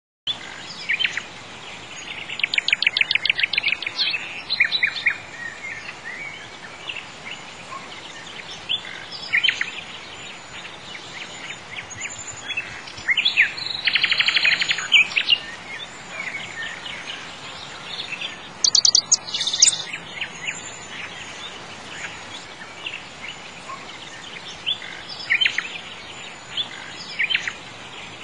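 Birdsong: rapid trills and scattered short chirps over a steady background hiss, starting abruptly.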